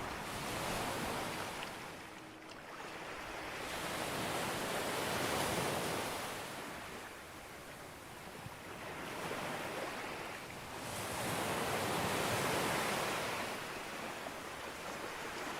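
Sea waves breaking on a beach, a steady wash of surf that swells and fades with each wave, about three surges.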